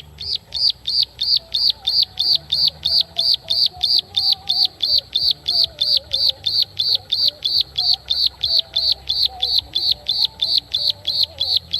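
A bird calling loudly, repeating one short call that slides downward, evenly about three times a second.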